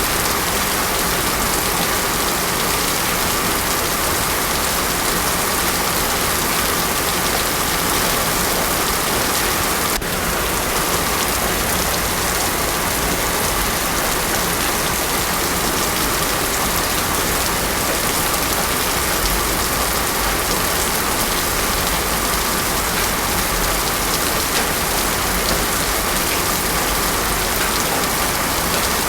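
Heavy rain falling steadily on a road, a dense even hiss with no thunder.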